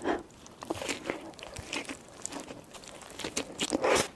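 Close-miked ASMR eating of a burger: bites and chewing with irregular crisp crunches and crackles, growing louder near the end.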